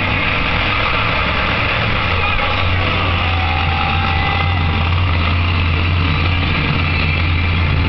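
Monster truck engine running steadily, with no big revs, against a background of voices.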